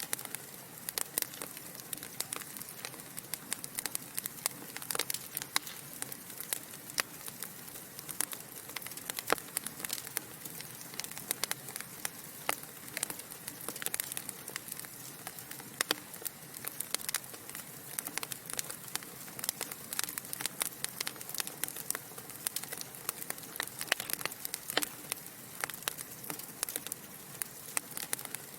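Wood fire burning in a fireplace, logs crackling with a constant stream of irregular sharp pops and snaps over a soft steady hiss.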